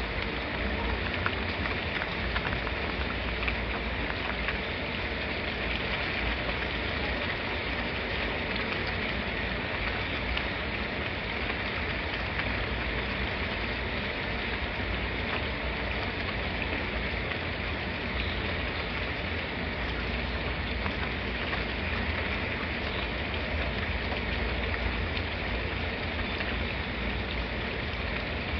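Steady rain falling, an even hiss with a low rumble underneath and faint scattered drips.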